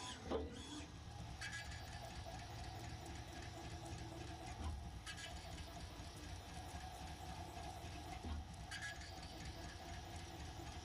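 Haas CNC mill running a machining program: a steady motor hum with a few brief, sharper bursts of cutting noise at irregular intervals.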